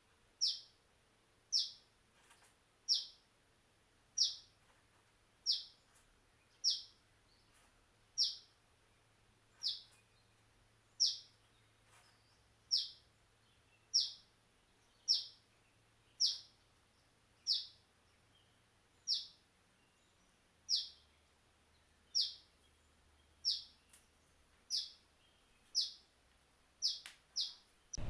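Common tailorbird calling: one short, sharp, downward-sweeping chirp repeated steadily about once every second, some twenty times.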